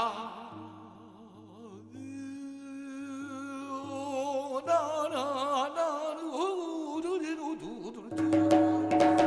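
Korean guum: a wordless sung vocalise with a deep, wide vibrato on long held notes, climbing higher about halfway through. Near the end, drum strokes and a steady held note from the accompaniment come in.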